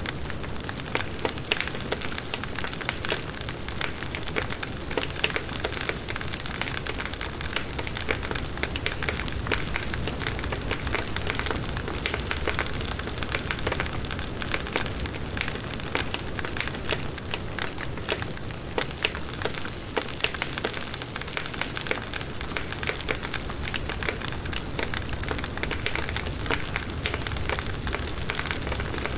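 Firewood burning in a campfire, crackling and popping with many small sharp cracks over a steady hiss of flame.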